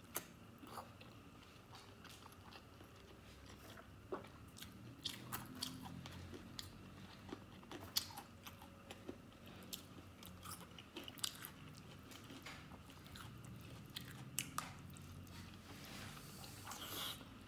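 Close-miked eating of soft stewed fatty pork and noodles: wet mouth clicks and smacks of chewing, scattered irregularly throughout, with a brief louder noisy mouth sound near the end.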